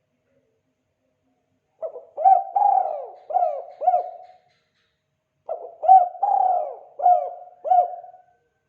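Spotted dove (tekukur) cooing its 'kuk 2' call: two phrases of about five coos each, the first starting about two seconds in and the second about halfway through.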